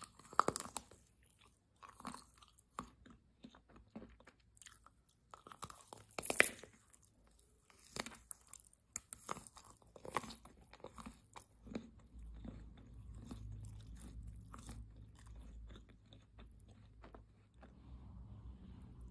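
Biting and chewing a chocolate-coated candy: sharp crunches of the chocolate shell over the first half, loudest just after the start and about six seconds in. In the second half it settles into softer, lower chewing with the lips closed.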